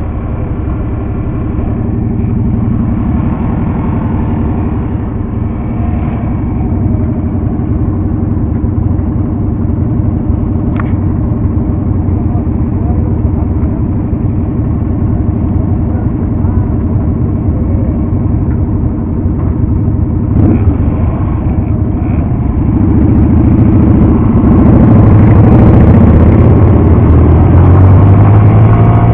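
Motorcycle engine running steadily on the move. It grows louder about three-quarters of the way through, and its pitch rises near the end as it accelerates.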